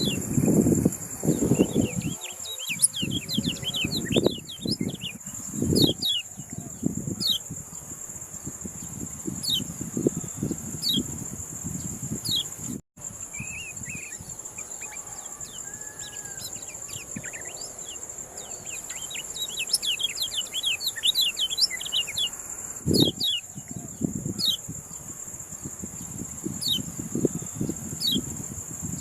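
Kecial kuning songbird calling in a rapid series of short, high, falling chirps, over a steady high-pitched insect drone. Irregular low rumbling noise comes and goes beneath it.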